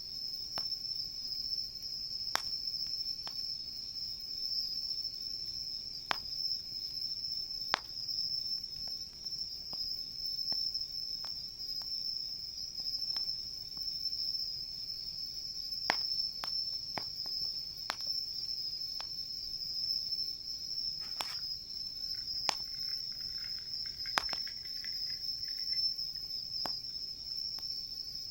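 A steady, high-pitched chorus of crickets chirping without a break, with sharp isolated pops and crackles from a wood campfire, about a dozen over the stretch.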